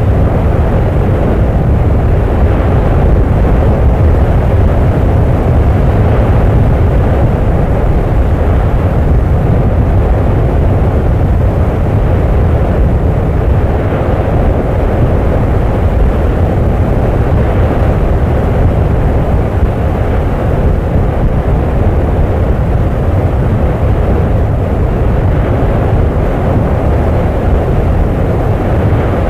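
Volcanic eruption rumbling: a loud, steady, deep roar with no distinct blasts.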